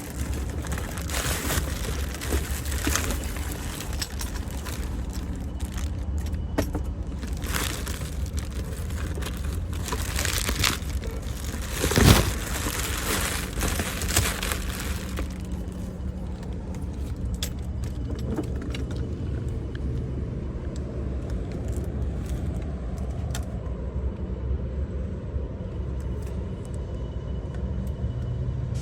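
Metal tools and parts clinking and rattling, busiest over the first half, with one loud knock about twelve seconds in, over a steady low rumble.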